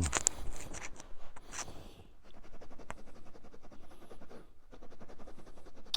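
Rapid, even scratching and rubbing, about eight to ten strokes a second in the second half, after a brief hissy rustle.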